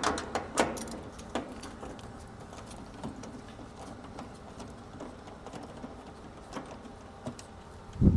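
Scattered small metallic clicks and taps of screws and hand tools while the access panel of an outdoor AC condenser unit is being removed, busiest in the first second, with a louder knock near the end.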